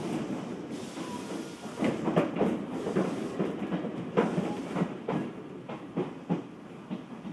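Odakyu 1000-series electric train running on the line, heard from inside the car: a steady rolling rumble from wheels on rail, broken by irregular clacks as the wheels cross rail joints.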